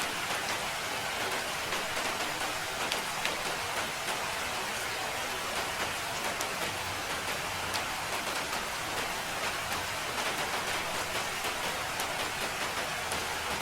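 Steady rain falling, an even hiss dense with fine drop ticks.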